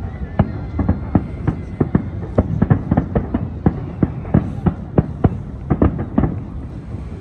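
Aerial fireworks bursting: a rapid, irregular string of sharp bangs, several a second, over a steady low rumble.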